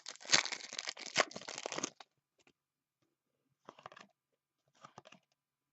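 A foil trading-card pack being torn open and crinkled, a crackling spell of about two seconds, then two brief crinkles of handling a few seconds later.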